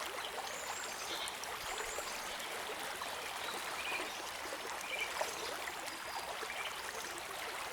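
Quiet, steady ambience of gently running water, like a trickling stream.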